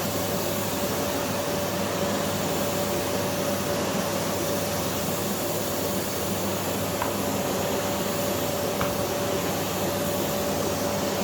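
Philips PowerPro FC9331/09 bagless vacuum cleaner with its 900 W motor running steadily while cleaning the floor: an even rush of air with a steady whine over it.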